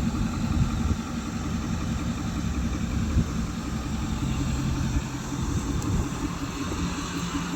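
A 6.4L Power Stroke turbo-diesel V8, straight-piped, idling steadily.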